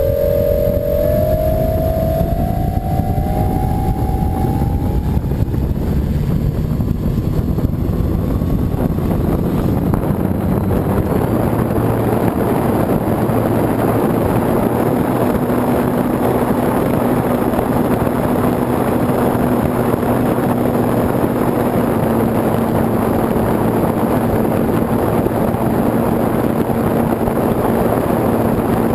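Electric motor and propeller of a foam RC model airplane heard from a camera on board: a whine rising in pitch over the first few seconds as the motor spins up, then a rough rush of propeller and wind noise with a steady hum while it flies.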